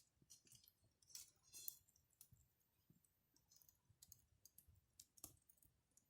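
Campfire crackling: faint, irregular pops and clicks of burning wood.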